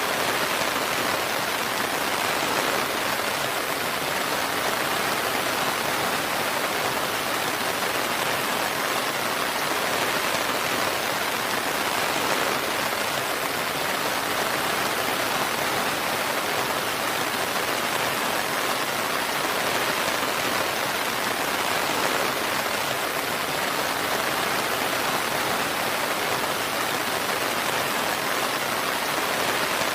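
Steady rain falling, an even, continuous hiss with no thunder and no change in strength.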